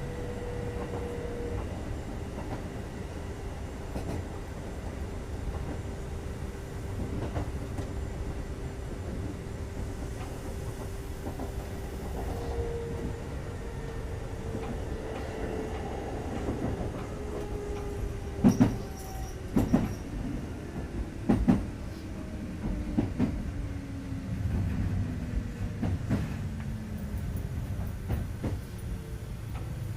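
Kintetsu 2430 series electric train heard from inside the car as it slows toward a station stop: a steady rumble under a whine that falls gradually in pitch. About two-thirds of the way through come a few loud clacks from the wheels over rail joints or points.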